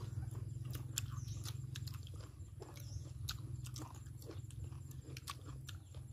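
Close-up chewing and biting of braised pork leg: irregular wet clicks and smacks of mouths eating, over a steady low hum.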